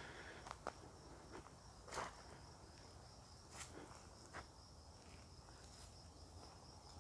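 Faint, steady high-pitched insect drone, with a few soft footsteps on a dirt path scattered through it.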